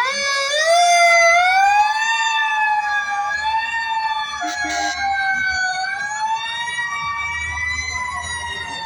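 Fire truck sirens wailing together at several different pitches. One winds up steeply at the start, then all rise and fall slowly.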